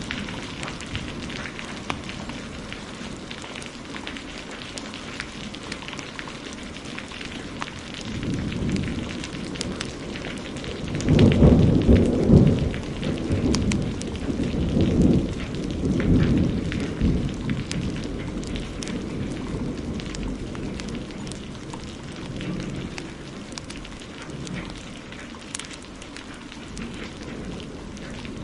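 Heavy rain falling steadily, with a wood fire crackling in short sharp pops throughout. About eleven seconds in, a roll of thunder rumbles low for several seconds before fading back into the rain.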